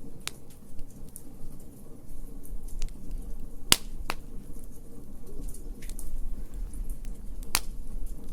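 Wood fire crackling in a fire pit: scattered sharp pops, the loudest a little before halfway and again near the end, over a steady low rumble of the flames.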